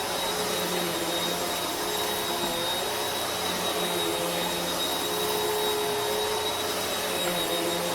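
Vacuum cleaner running steadily, a constant rushing of air with a thin high motor whine over it.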